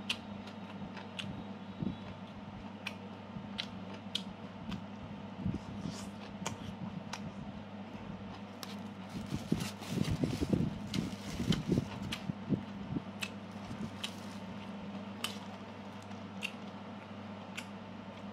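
Close-up chewing of a mouthful of stir-fried beef: scattered wet mouth clicks and smacks, busiest about ten seconds in, over a steady low hum.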